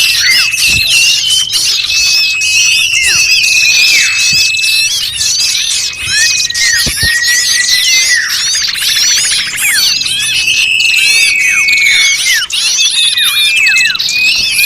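A noisy chorus of many small birds calling at once: dense, overlapping chirps, sharp downward-sweeping calls and long buzzy trills. This is a lure recording of agitated, noisy birds made to draw small birds in.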